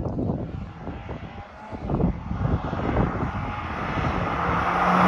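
Exhaust of a muffler-deleted Acura ILX as the car approaches, rough and uneven at first, then settling into a steady drone that grows louder near the end.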